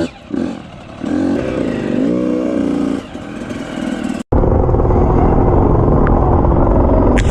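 Motorcycle engine revving up and down. About four seconds in it cuts abruptly to a louder, steady engine drone with a sharp click near the end.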